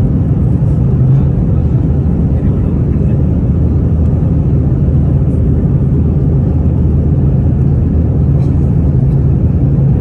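Airliner cabin noise: a steady, loud low rumble from the jet engines and airflow, with a steady low hum.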